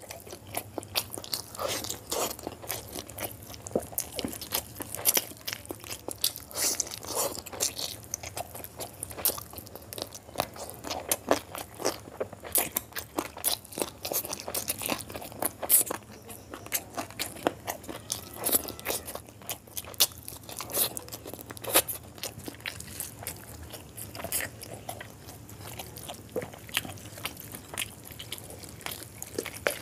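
Close-miked chewing of curried chicken: a constant run of quick, sharp, wet smacks and clicks from the mouth.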